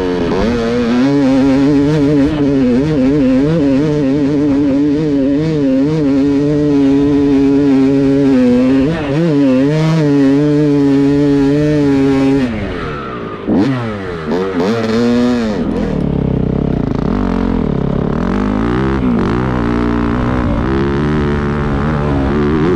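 Dirt bike engine revving hard with its pitch wavering rapidly up and down as it climbs under load. About 13 seconds in the revs drop and swing sharply up and down a couple of times, then the engine runs on at a lower, steadier pitch.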